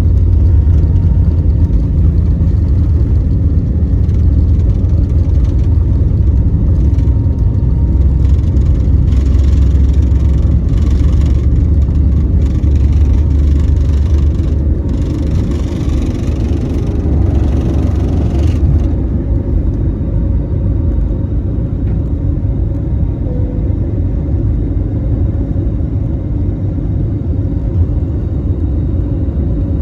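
Airliner cabin noise in the climb just after takeoff: the jet engines and airflow make a steady deep rumble. The higher hiss drops away about two-thirds of the way through and the noise eases slightly.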